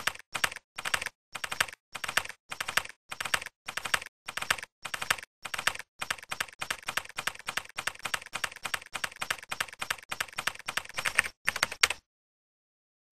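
Typing on a computer keyboard: quick clusters of keystrokes with short pauses between them, turning into a steady, faster run of typing about halfway through, which stops about a second before the end.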